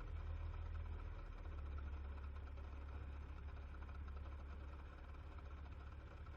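Spartan fire engine's diesel engine running with a steady low rumble.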